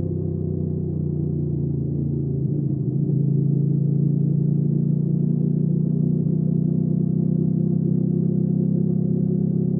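Hyosung GV300S Aquila 300's V-twin engine running while the motorcycle is under way. About two and a half seconds in, the note shifts and gets a little louder, then holds steady.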